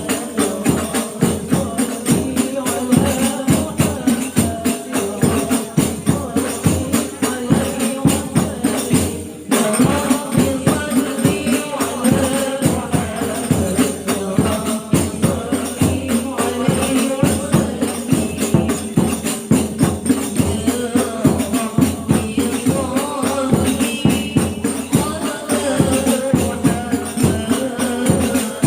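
Hadroh ensemble of rebana frame drums beaten in a fast, steady interlocking rhythm, with a group of women singing sholawat over it. The drumming breaks off for an instant about nine seconds in, then carries on.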